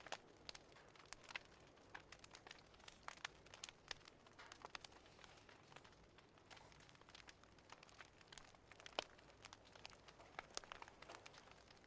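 Faint crackling of a wood fire in a fireplace: irregular small pops and snaps over a low hiss, with one sharper pop about nine seconds in.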